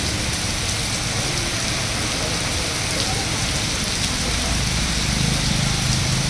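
Heavy rain pouring onto a wet road and pavement, a steady hiss. A low vehicle rumble grows louder near the end as a car passes on the flooded road.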